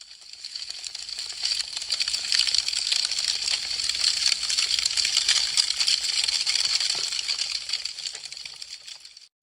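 Wood fire crackling, a dense run of small sharp pops and snaps. It fades in over the first second or two and fades out near the end.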